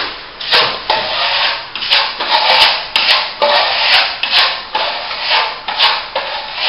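A steel plastering trowel stroked over a fresh plaster top coat: quick rasping scrapes, about two a second, with a few sharp clicks among them.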